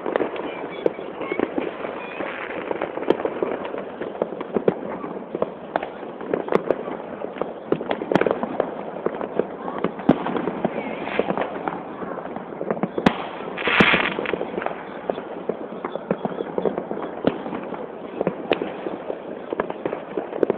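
Many distant fireworks going off at once: a continuous din of bangs and crackles, with one louder hissing burst about two-thirds of the way through.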